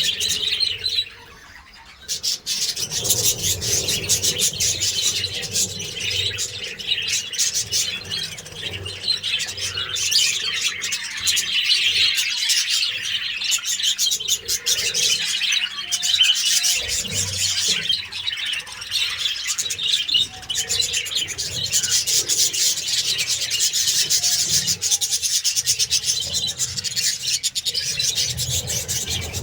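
A flock of budgerigars chattering and chirping without pause, a dense mix of warbles, tweets and clicks. It drops away briefly about a second in.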